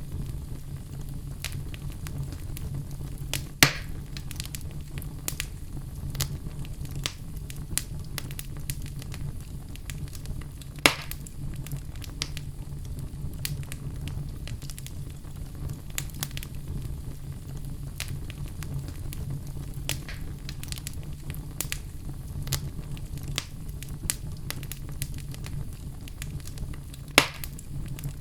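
Wood fire burning in a fireplace: a steady low rumble of flame with continual small crackles and three louder sharp pops, about 3.5 s, 11 s and 27 s in.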